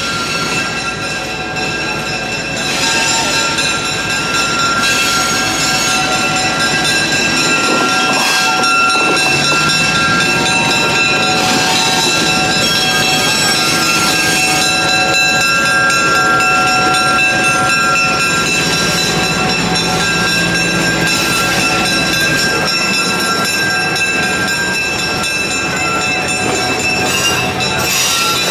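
Train running close by, a loud steady rumble with several high, ringing tones held over it.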